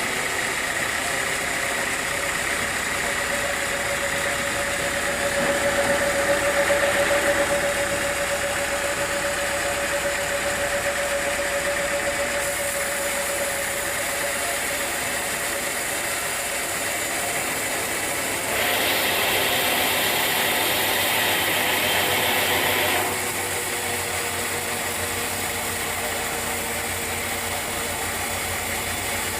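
Sawmill machinery running steadily with a held mid-pitched tone, growing louder and harsher for a few seconds about two-thirds of the way through.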